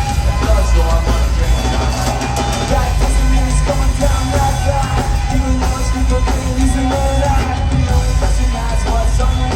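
Live punk rock band playing loudly, with heavy booming bass and drums under yelled vocals.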